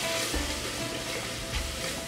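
Chopped onion, tomato and spices sizzling in oil in a metal pressure cooker while a wooden spatula stirs them, with background music playing over it.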